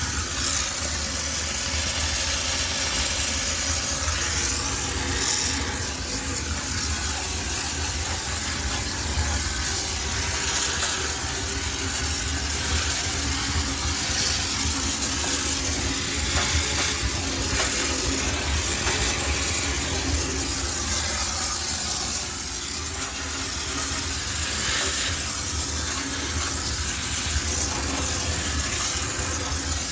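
High-pressure steam cleaner jetting steam in a steady hiss over a low machine hum, sterilizing the inside of a laundromat washing machine.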